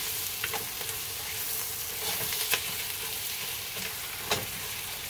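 Flour-dredged beef and onions sauteing in butter in a pot: a steady sizzle while a spatula stirs and scrapes through the meat. A few sharp clicks stand out, the loudest about two and a half and four seconds in.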